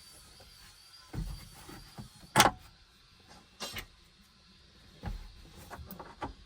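Knocks and thumps of a fitted part being handled and set back into the car's interior: a few scattered bumps, the loudest a sharp knock about two and a half seconds in.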